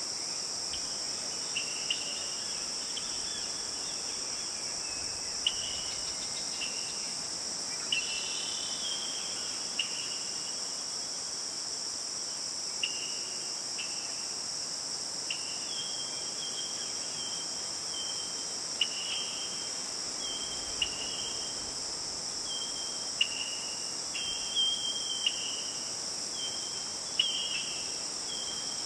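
Steady high-pitched insect drone, like crickets, in forest ambience. Short high chirps repeat irregularly over it, coming more often in the second half.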